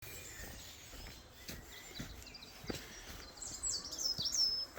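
Birds calling in the forest: high chirps and short sliding calls, with a louder, quick run of calls near the end. A few soft knocks, such as steps on the path, come in between.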